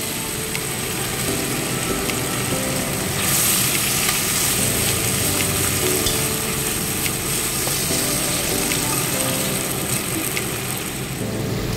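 Potato slices and vegetable stalks sizzling in hot oil in an iron kadai, stirred with a metal spatula that scrapes and clicks against the pan. The sizzle gets louder about three seconds in.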